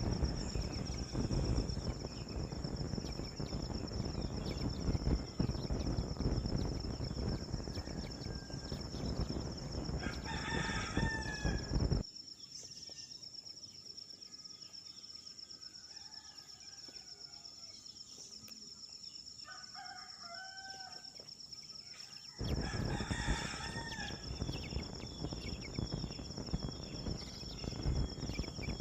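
A rooster crowing twice, about twelve seconds apart, over a steady high insect drone and a rumbling wind or handling noise that drops away for about ten seconds in the middle, leaving faint bird chirps.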